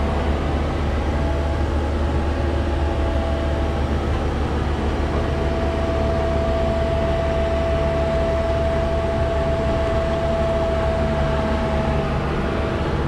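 Diesel engine of construction equipment, a mini excavator or excavator, running steadily with a low hum and a steady whine on top.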